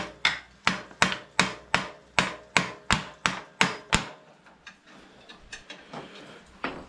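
Hand hammer striking steadily, about three sharp blows a second, a dozen in all, stopping about four seconds in; one more blow near the end.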